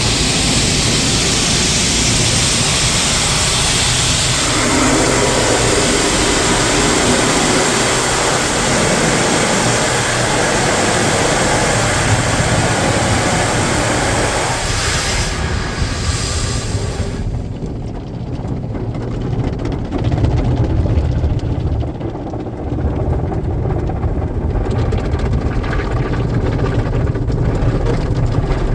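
Automatic car wash heard from inside the car: a loud, dense spray hiss of water on the bodywork, which stops sharply a little over halfway through, leaving a steady low rumble of the wash machinery.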